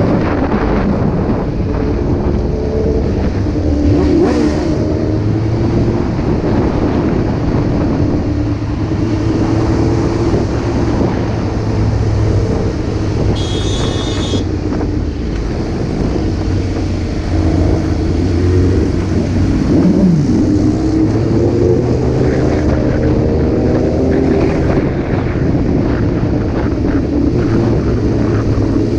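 Motorcycle engines running in traffic, revs rising and falling, with a brief high-pitched tone about halfway through.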